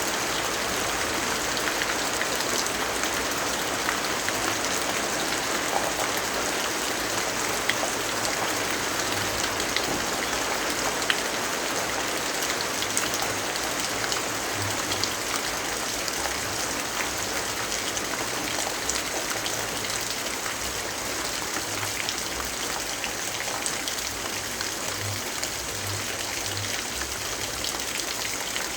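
Steady rainfall, an even hiss of rain with scattered small sharp ticks of drops landing.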